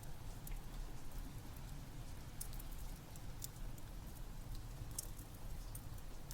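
Steady rain with a low rumble, mixed with a crackling log fire whose sharp pops come every second or so, a few standing out at about two and a half, three and a half and five seconds in.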